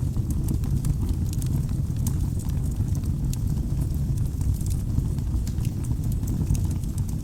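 Wood fire burning in a fireplace: a steady low rumble of flames with frequent small, sharp crackles and pops at irregular intervals.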